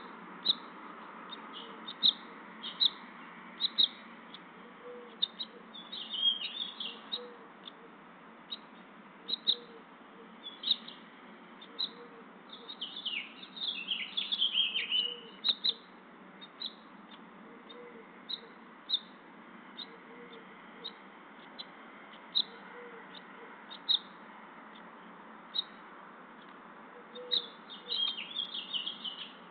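Songbird chirping: short high chirps about once a second, with brief runs of twittering about six seconds in, for a couple of seconds around the middle, and again near the end.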